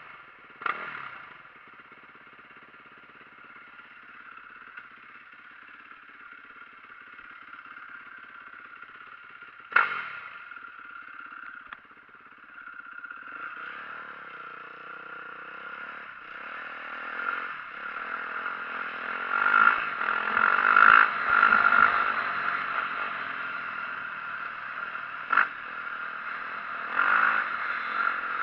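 The single-cylinder four-stroke engine of a 2004 Yamaha YZ450F dirt bike runs low at first, then revs repeatedly from about halfway as the bike gets moving. A few sharp knocks come through, one near the start, one about a third in and one near the end.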